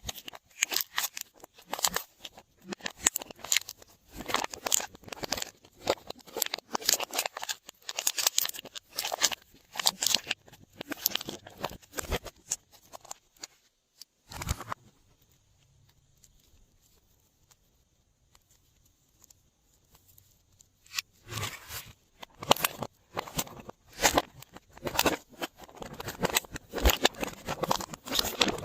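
Glossy slime being squished and worked by hand, a dense run of wet, sticky clicks and pops. It pauses for several seconds about halfway through, then starts again.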